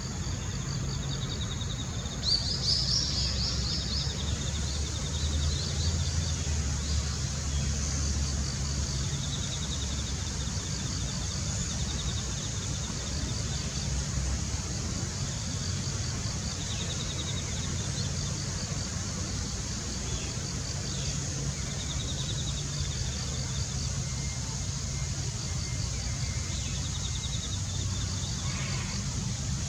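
Outdoor ambience: a steady low rumble under faint, high, evenly repeated chirping, with a short run of louder high bird calls about two seconds in.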